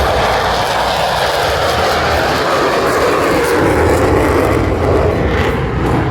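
An airplane's engine noise at an air show, loud and steady, sinking in pitch partway through as it passes overhead.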